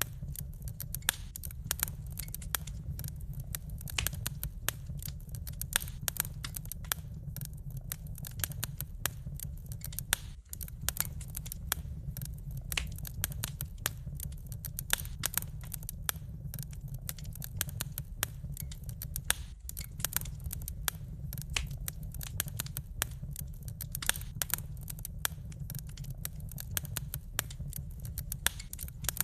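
Wood fire crackling in a fireplace: many irregular snaps and pops, a few louder than the rest, over a steady low rumble.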